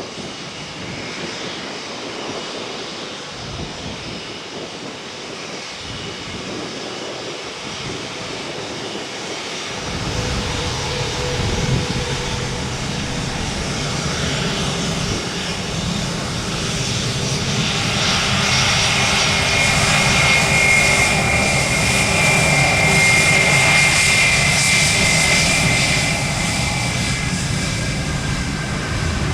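Jet airliner's engines passing: a rumble that builds from about a third of the way in and grows louder, with a high whine over it in the second half, easing slightly near the end.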